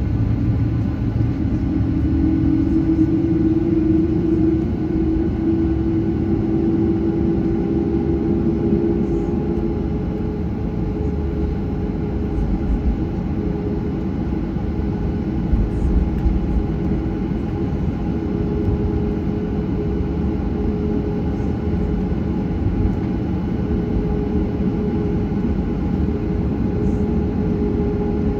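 Jet engine noise heard inside a Boeing 737-800 cabin while the aircraft is on the ground at low power: a steady rumble with an engine hum whose pitch rises a little over the first few seconds and then holds.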